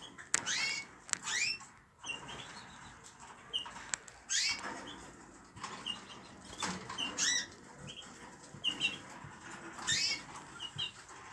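Small cage birds and their chicks calling: short high chirps mixed with repeated quick sweeping squawks, several in a row.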